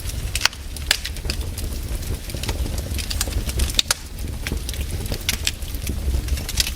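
Wood fire crackling, with irregular sharp pops and snaps scattered throughout over a steady low rumble.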